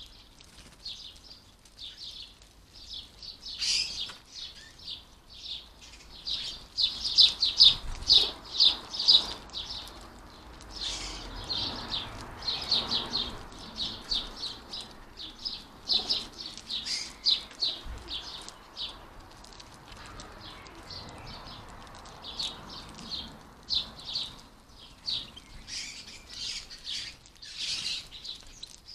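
European goldfinches twittering: many short, quick chirps in runs that come and go, busiest around the middle and again near the end.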